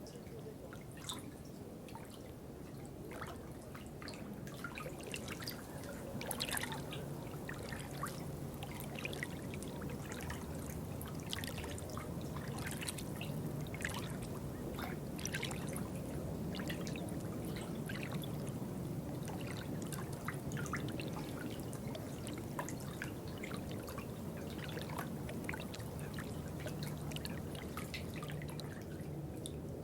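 Water trickling and dripping: many small irregular drips over a low steady wash of running water, a little fuller after about six seconds.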